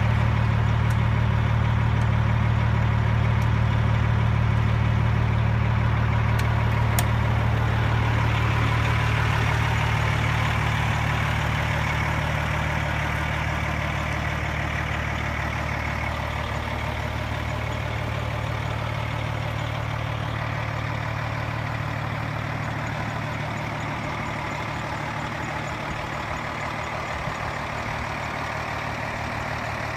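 2007 KME rescue engine's diesel engine idling with a steady low hum, a single click about seven seconds in, gradually getting a little quieter over the second half.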